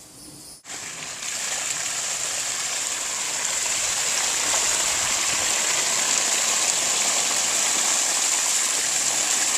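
Water gushing in a steady rush, starting suddenly about half a second in and growing a little louder over the next few seconds. It is green pool water being drained out and flooding the backyard.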